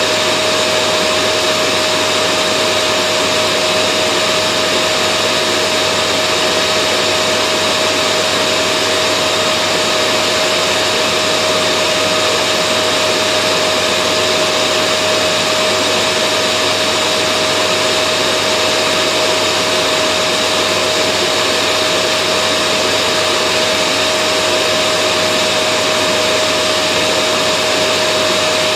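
Vacuum cleaner running steadily and loudly: an unchanging rush of air with a strong steady motor whine on one pitch and a fainter higher whine above it.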